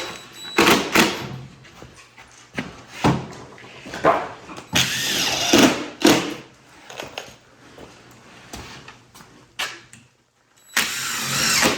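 Workshop work on a wooden door: several short bursts of a power drill, with knocks and handling noises in between.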